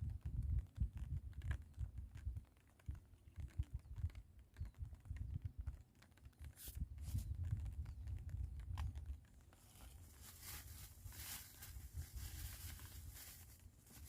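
Wind buffeting the microphone in uneven gusts. From about ten seconds in the gusts ease and a crackling, rustling hiss joins them.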